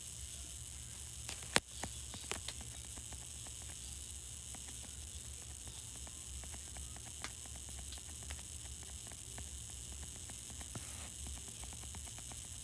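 A steady low hum with a faint hiss of static and scattered small clicks, and one sharp click about one and a half seconds in.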